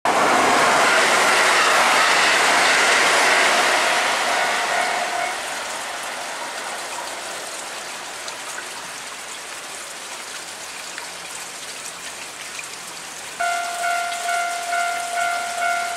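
Heavy rain hissing steadily. For the first four seconds a Kintetsu limited express train is loud as it passes, and a level-crossing warning bell rings over it until about five seconds in. Near the end the crossing bell starts again, ringing in quick repeated strokes, as the Kintetsu Hinotori limited express approaches.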